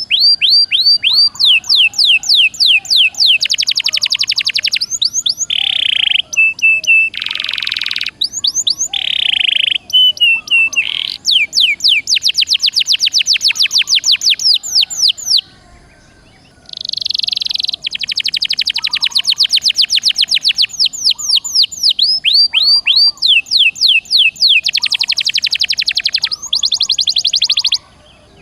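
Domestic canary singing a long, loud song of fast rapid-fire trills, several notes a second, broken by buzzy rolling phrases, with a brief pause about halfway through.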